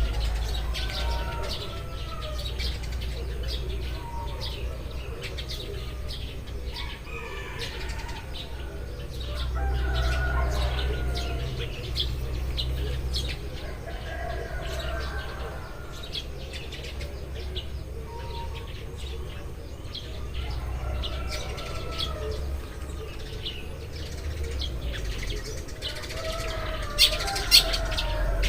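A flock of Eurasian tree sparrows chirping, many short overlapping chirps over a steady low rumble. Two sharp clicks stand out near the end.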